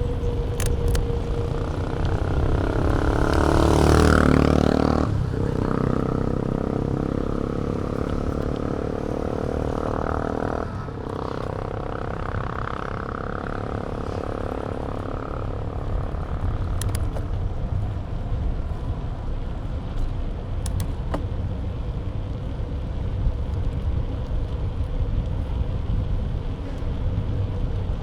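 Steady wind and road rush on a camera mounted to a moving bike, with a motor vehicle passing close about four seconds in and another passing around ten to thirteen seconds in.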